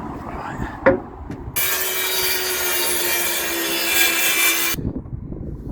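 Power tool cutting through a steel bracket for about three seconds: a harsh, loud hiss over a steady hum, which cuts off suddenly. A sharp click comes just before the cut starts.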